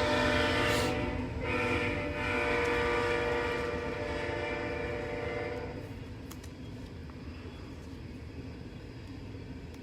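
Train horn blowing a long, steady chord of several tones, with a brief dip about a second in, that stops about six seconds in, leaving a low, steady rumble.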